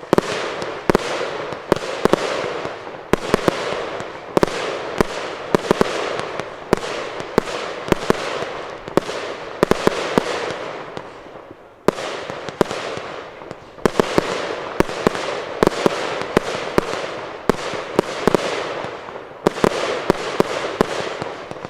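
Aerial fireworks going off in rapid succession: sharp booms several times a second, each trailing into crackle and echo, with brief lulls about halfway and near the end.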